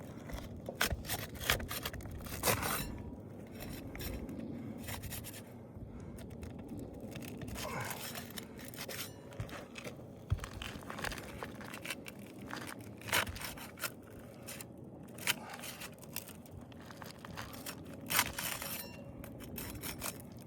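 Scraping and prying on brittle asphalt roof shingles: irregular short scrapes and knocks as the sealed tabs are worked loose.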